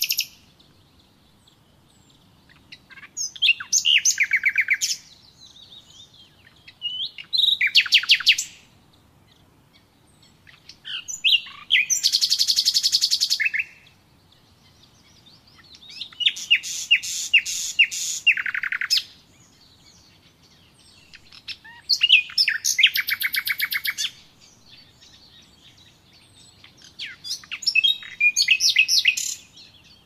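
A songbird singing six short song phrases, each one to three seconds of rapid trilled notes, repeated about every five seconds with quiet between them.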